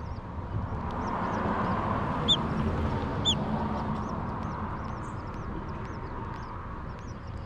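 Baby birds making many thin, high begging chirps in quick succession, with two louder calls about two and three seconds in, over a steady rushing background noise.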